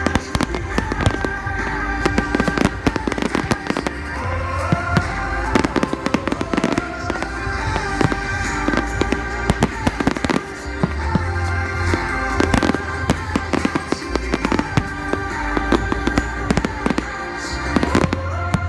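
Fireworks display bursting, with many sharp bangs and cracks in quick, irregular succession, over loud music played for the show.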